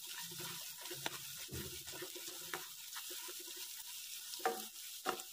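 Diced pork frying in oil with ginger-garlic and dried-chilli paste in a non-stick pan: a steady sizzle while a spatula stirs and scrapes it, with a few sharp clicks as it knocks the pan.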